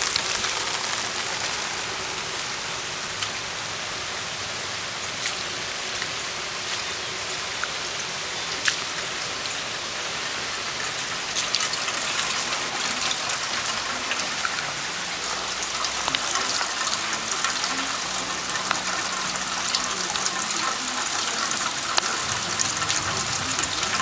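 Steady rain falling on wet pavement, an even hiss with scattered sharp drop taps.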